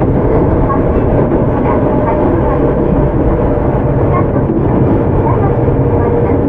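Steady running noise inside a Tokyu 9000-series electric commuter train under way: an even rumble of wheels on the rails and a faint steady hum.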